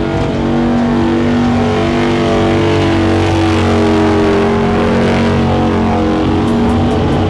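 Motorcycle engine held at high revs during a street burnout, loud and steady with its pitch wavering slightly.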